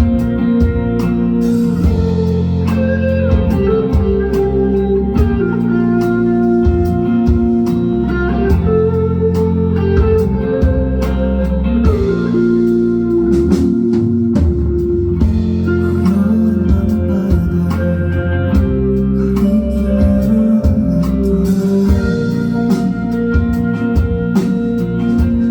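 Band music led by guitar, with strong low bass notes and a steady drum beat, playing an instrumental passage of a song.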